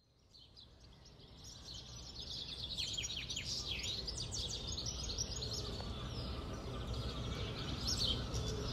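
Wild birdsong: several birds chirping and trilling, fading in over the first few seconds, over a low steady background rumble.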